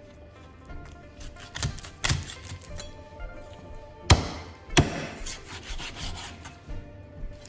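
Knife cutting a whole chicken leg into pieces on a wooden chopping board: sawing strokes through the meat, with four hard chops, two about two seconds in and two more about four to five seconds in.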